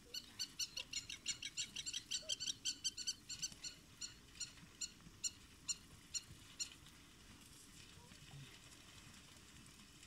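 A bird calling a rapid series of short, high-pitched chirps, about four or five a second at first, then slowing and stopping about seven seconds in.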